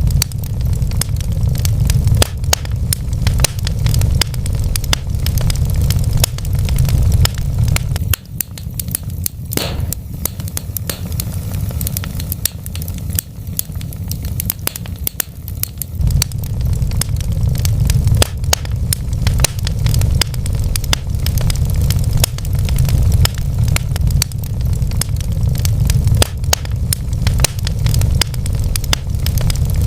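Wood fire in a fireplace crackling and popping, with many sharp irregular snaps over a steady low rumble of the burning logs.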